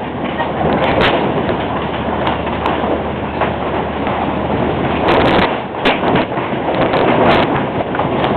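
Sandstorm wind blasting against the microphone in a loud, steady rush, with several sharp cracks of tent fabric snapping in the gusts.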